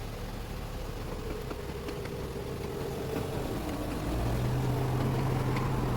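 A car engine running steadily with a low hum, growing louder about four seconds in.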